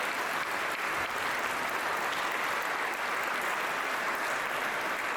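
Large audience applauding steadily, a dense unbroken clapping that follows a speech.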